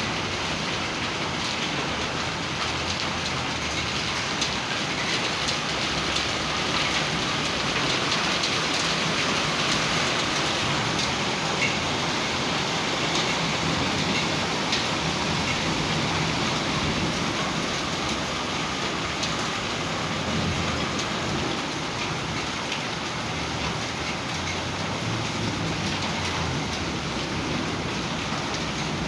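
Heavy hailstorm: marble-sized hailstones and rain pelting down in a steady, dense hiss, with occasional sharper ticks of hail striking.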